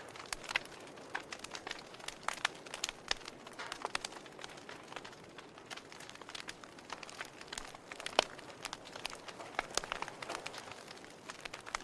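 Wood fire crackling in a fireplace: irregular snaps and pops over a soft steady hiss, with one sharper pop about eight seconds in.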